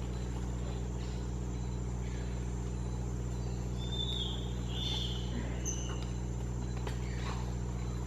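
A steady, low motor hum running evenly throughout, with a few short, high chirps about halfway through.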